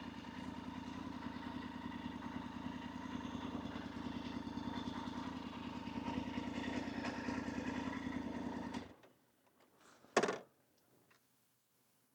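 Motorcycle engine idling steadily, then cutting off suddenly about nine seconds in; a single short click or knock follows about a second later.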